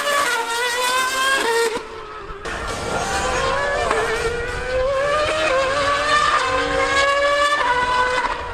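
Racing engines of a V8 Formula One car and a Yamaha R1M superbike at high revs, the pitch climbing and dropping back with each gear change, with a brief drop in level about two seconds in.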